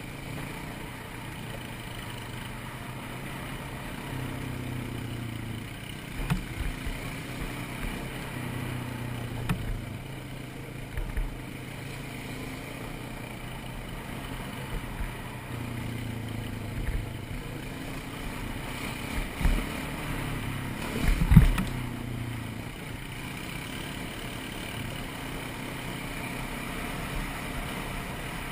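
ATV engine running while the quad is ridden, its note rising and falling with the throttle. Sharp knocks come every few seconds, the loudest about 21 seconds in.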